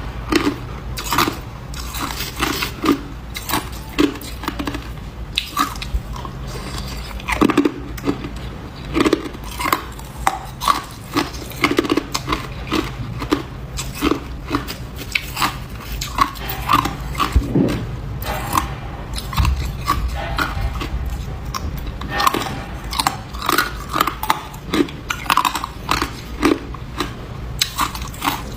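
Close-up crunching of ice being bitten and chewed: many sharp, irregular crunches, several a second, without a break.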